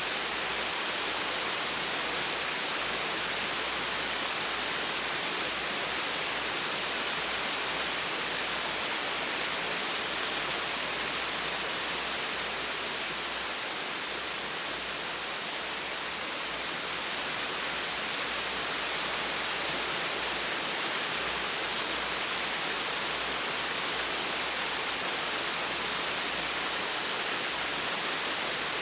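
Small waterfall splashing steadily, an even rushing hiss of falling water with no change.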